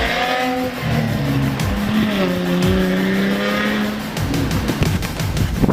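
Mercedes-Benz W204 C300 engine revving, its pitch rising and falling and then holding, followed from about four seconds in by a rapid run of crackles and pops from the tuned exhaust.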